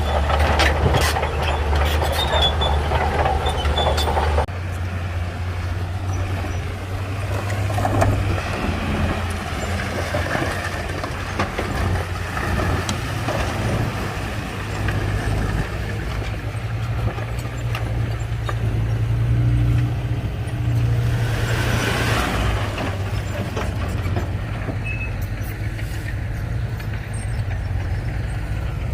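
Heavy diesel earthmoving machinery running, with a steady low engine drone. Clattering noise for about the first four seconds stops suddenly, and a brief hiss comes about two-thirds of the way through.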